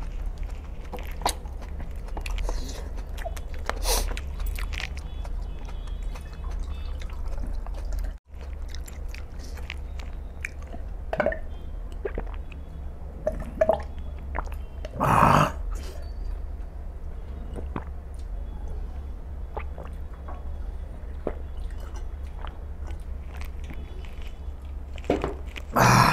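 A man chewing a mouthful of chicken and rice, with wet chewing and scattered mouth clicks over a steady low hum. There is one louder mouth sound about halfway through.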